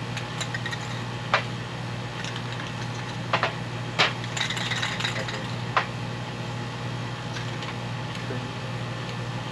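A steady low mechanical hum, like a motor running, with a few sharp clicks and knocks over it, the loudest about four seconds in.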